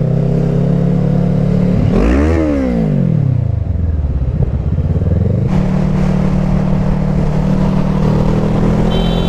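Motorcycle engine running while riding. About two seconds in, the revs rise and then fall back, and about halfway through, the wind noise on the helmet microphone gets stronger.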